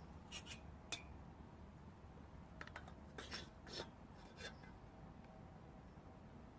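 Faint, scattered light clicks and rubbing of camp cookware and eggs being handled, about half a dozen small knocks over a low steady background hum.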